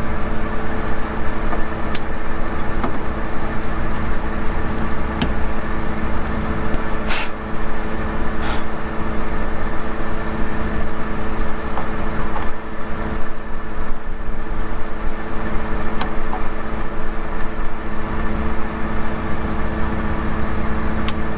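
A vehicle's engine running steadily, a constant low rumble with a steady hum, and a few light clicks.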